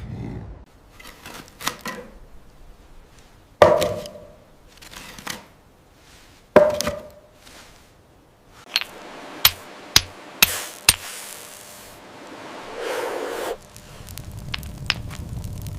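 A series of sudden knocks: two heavy thunks a few seconds apart, then a quick run of five or six sharp clicks, then a short rushing swell.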